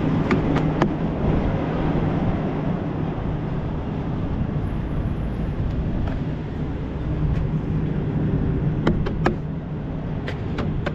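Semi-truck diesel engine idling steadily, with a few sharp clicks about a second in and again near the end.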